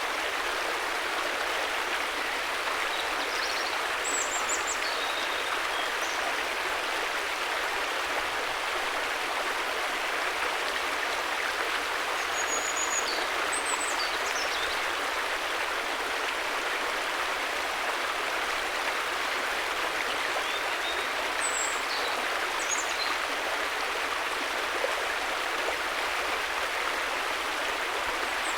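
River water flowing steadily in a dense, even rush. Brief high chirps sound in small clusters a few times over it.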